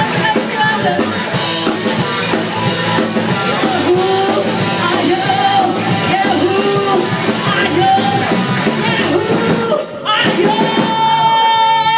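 Rock band playing live with a singer. About ten seconds in the music breaks off briefly, then a final note is held.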